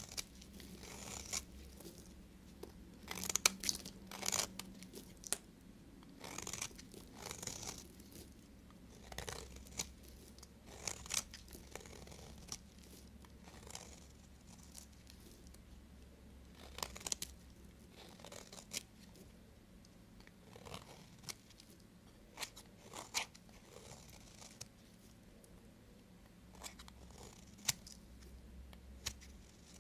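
Knife cutting through bars of soap, making irregular crisp crunching and scraping cuts, sometimes several in quick succession.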